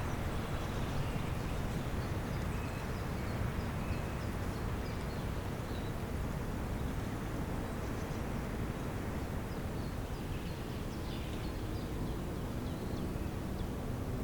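Spring outdoor ambience: a steady low rumbling background noise with faint, scattered bird chirps, a little busier in the second half.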